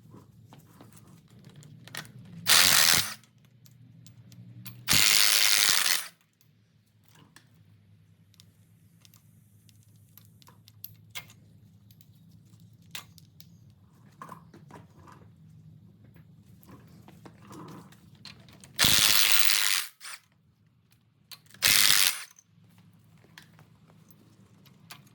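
A power tool runs in four short bursts while the rocker arm nuts are taken off a 289 V8's cylinder head, with light clicks of metal parts being handled in between and a steady low hum throughout.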